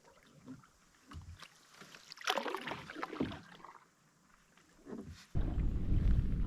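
Canoe paddle strokes, the blade dipping and splashing in the river a second or so apart, the loudest about two seconds in. Near the end a loud low rumble of wind buffeting the microphone starts suddenly.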